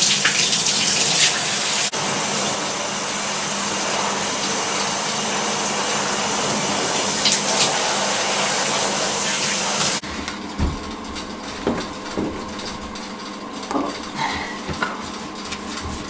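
Water running steadily into a bath while a dog is washed, cutting off suddenly about ten seconds in. A few light knocks and clatters follow.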